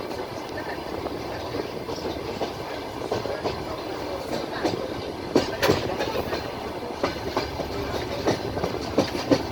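Wheels of a moving passenger train rolling along the track with a steady rumble, knocking over rail joints. Sharp paired knocks come around the middle and again near the end.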